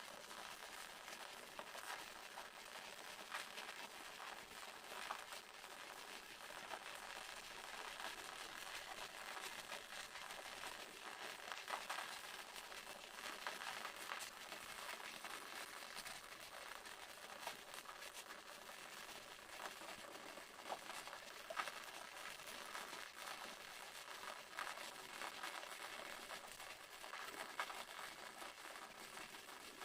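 Waterfall: falling water making a steady hiss, dotted with small crackling splashes.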